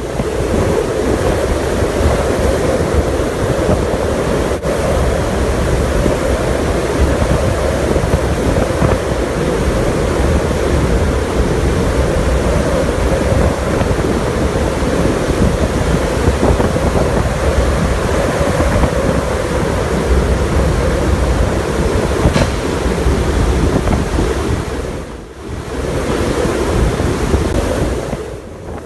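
Hurricane-force wind blowing across the microphone, a loud steady rush of wind noise that drops away briefly near the end.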